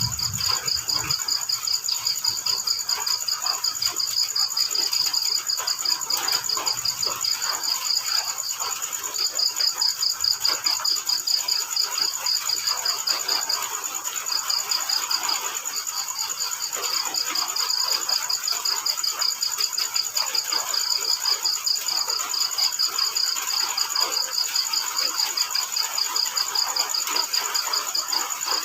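Crickets chirping in fast pulsing trains that break off briefly a few times, over a steady high insect trill and a soft even hiss.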